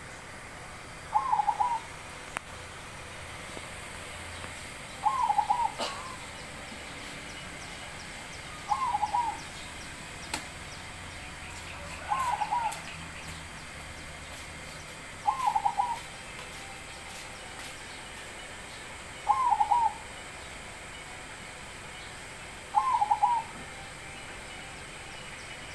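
Zebra dove (perkutut) singing: a short, rolling coo phrase repeated seven times at an even pace, about one every three and a half seconds.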